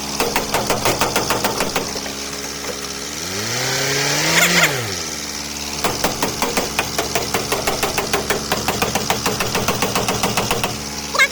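A motor running steadily with a fast, even train of clicks, its pitch rising and then falling once near the middle.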